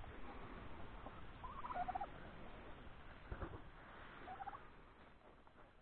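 Domestic turkeys gobbling: two short, rapid warbling gobbles, the first about one and a half seconds in and the second near the end, with a soft thump between them.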